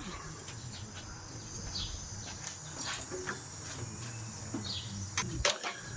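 Steady high-pitched insect chirring, typical of crickets, with a couple of short bird chirps and a few faint clicks in the second half.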